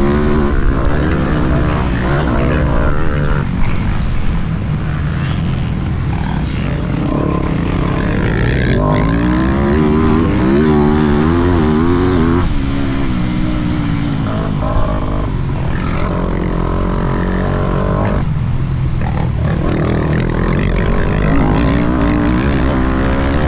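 Motocross bike engine racing around the track, its pitch climbing and falling over and over as the throttle is opened and shut, with short drops off the throttle about halfway through and again near the end.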